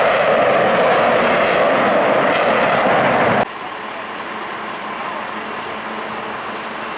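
Jet noise from Blue Angels F/A-18 Super Hornets flying their display: a loud, even rush that drops off abruptly about three and a half seconds in, giving way to quieter, steady engine noise.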